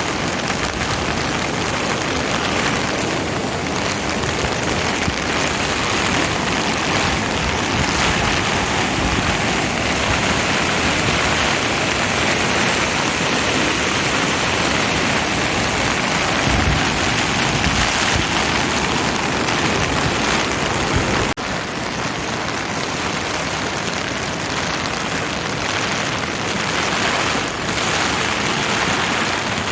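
Steady, loud rush of water from a river swollen by a typhoon, with a sudden short dip about 21 seconds in.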